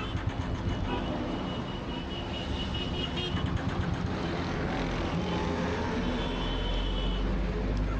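Yamaha MT-09 three-cylinder motorcycle riding through traffic, engine running under wind and road noise, with the engine note rising about five seconds in.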